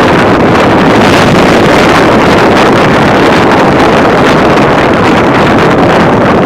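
High winds of 40–50 mph gusting to 60 blowing hard over the microphone: a loud, steady roar of wind noise with no let-up.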